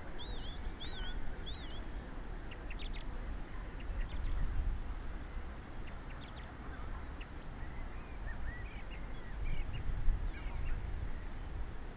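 Birds calling: three arching whistled calls in the first two seconds, then scattered short chirps, over a steady low rumble.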